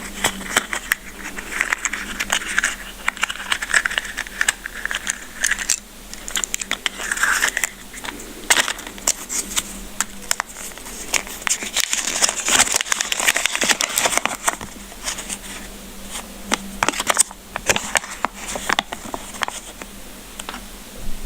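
Plastic candy wrapper crinkling and crackling as it is handled and opened, with many sharp clicks and ticks, over a faint steady hum.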